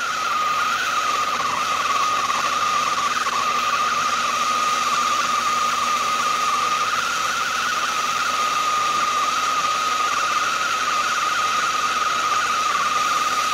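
Propane torch flame burning steadily while heating a steel part for bending: a continuous hiss with a constant high tone running through it.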